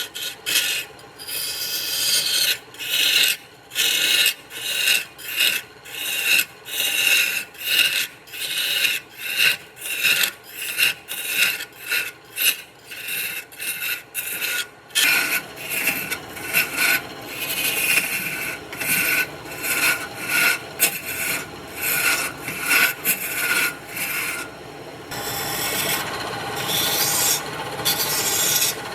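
Wood being rubbed down by hand with an abrasive in quick, repeated back-and-forth strokes, about two a second. The strokes change in character about halfway through and again near the end.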